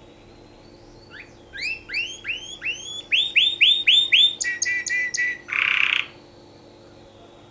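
Canary singing one song phrase: a run of repeated whistled notes that sweep up and fall back, about three a second, then a fast trill, then a short harsh buzz, ending about six seconds in.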